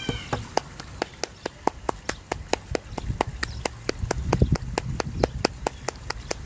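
Rapid, even clicking, about four or five clicks a second, with a low rumble about four seconds in.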